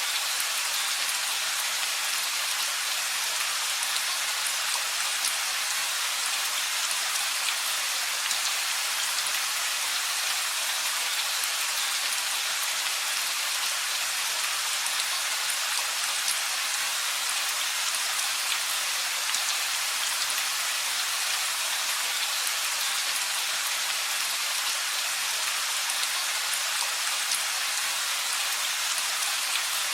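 Steady rain falling: an even hiss, heaviest in the upper range, with the fine patter of individual drops.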